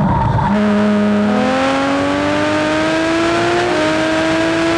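Porsche 911 GT3's naturally aspirated 3.6-litre flat-six accelerating hard, heard on board. After a short break near the start, the engine's pitch climbs steadily as the revs rise.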